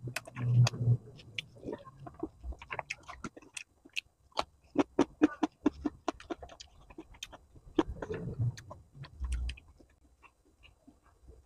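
Close-miked wet chewing of bakso meatball and noodles: a steady run of short, sticky mouth clicks and smacks, with a low hum from the throat near the start and again late on.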